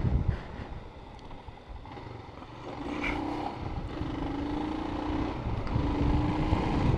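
Motorcycle engine running as the bike rides on and picks up speed, with wind rumble on the helmet-camera microphone. The engine note is low at first, then from about three seconds in it climbs in short steps with brief breaks between them, as through gear changes.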